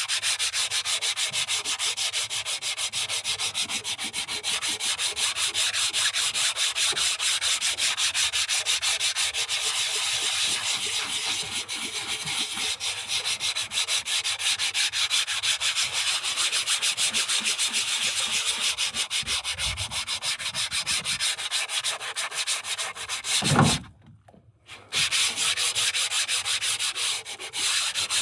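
Rapid, even back-and-forth strokes of hand sanding. Near the end there is a short thump, then a pause of about a second before the sanding resumes.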